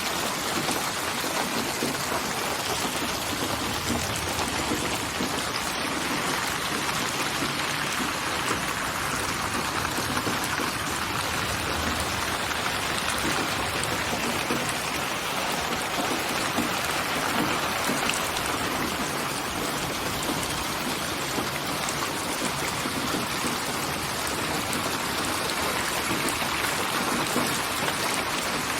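Steady rain falling, an even unbroken hiss of drops with no thunder, in a relaxation recording processed as 8D audio that pans around the listener.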